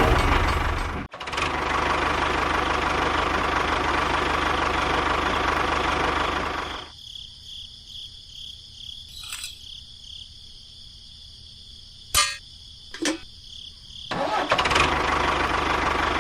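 A small engine or motor running steadily, then stopping for about seven seconds. In the quiet stretch there is a faint steady high whine and two sharp clicks. Near the end it starts up and runs again.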